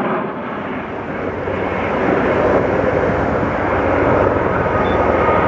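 Aircraft engine noise from planes in flight, a steady rushing sound that dips slightly about half a second in and then builds again, with a faint whine coming in near the end.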